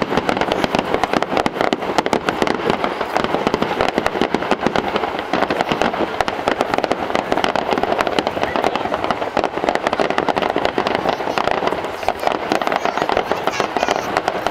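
Fireworks display: a dense, unbroken barrage of shell bursts and crackling reports, many bangs a second, continuing without a pause.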